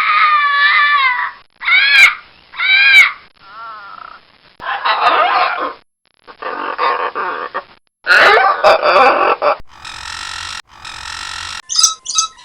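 A quick run of different animal calls, each cut short and followed by the next. It opens with several rising-and-falling pitched calls in the first three seconds, then moves to rougher, noisier calls.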